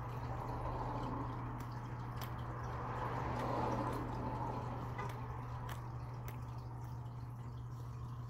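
Close-up chewing of a soft bun filled with pork floss and omelette: wet mouth clicks and squishing, swelling a little about halfway through, over a steady low hum.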